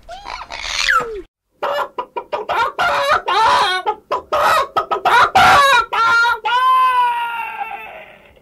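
Chickens clucking in a quick run of short calls, then a rooster crowing, its last note long-held and fading out.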